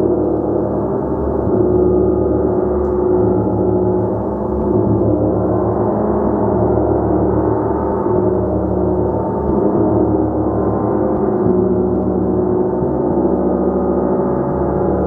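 Gong played continuously: a dense, sustained wash of many overlapping tones at a steady level, with no single strike standing out.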